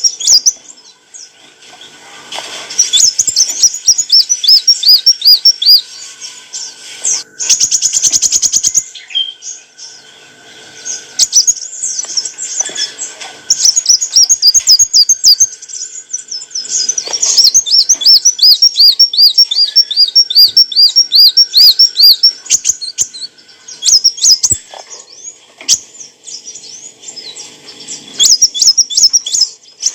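Sunbird (kolibri wulung) singing: fast strings of high, sharp, repeated chirps that run into rapid trills of falling notes, broken by short pauses. A brief patch of sharp clicks comes about seven seconds in.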